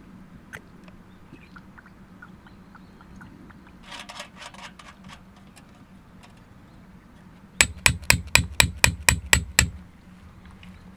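A hammer striking hard about nine times in quick succession, roughly four or five blows a second, for about two seconds starting over halfway through; a few faint knocks come earlier.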